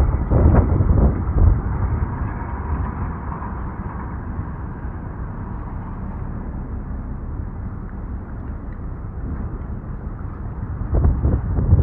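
Wind gusting against the microphone: a low, buffeting rumble that is strongest in the first second or so and swells again near the end.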